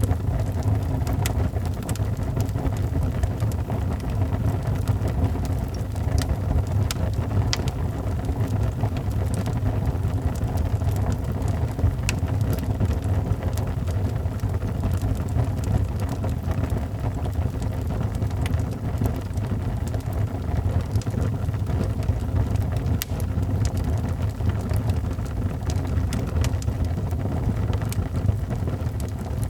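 Wood fire burning in a fireplace: a steady low rumble from the flames with scattered sharp crackles and pops.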